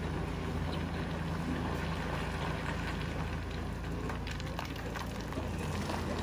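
Excavator's diesel engine running steadily, with a few faint clicks about four seconds in.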